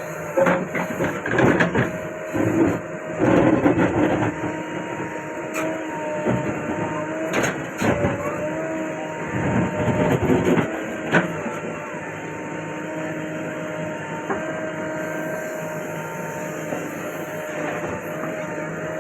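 JCB 3DX backhoe loader's diesel engine running under load with a wavering hydraulic whine. Bursts of scraping and clattering come from about half a second to four seconds in and again from about seven to eleven seconds in, as the bucket digs soil.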